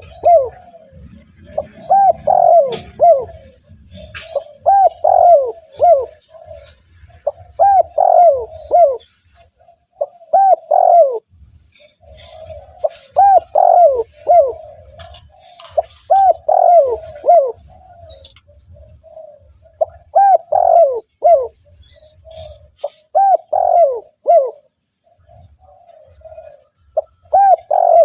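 Spotted dove cooing its song over and over, a short phrase of three or four coos about every three seconds. Faint high chirps of small birds sound in the background.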